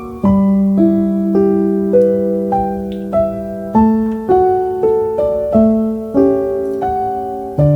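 Background music: gentle solo piano playing slow held notes, roughly two to three notes a second, each ringing and fading.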